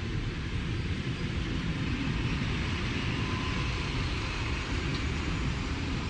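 Metre-gauge electric train of the Luzern–Stans–Engelberg line running along the track as it pulls away from the platform: a steady low rumble with a hiss above it.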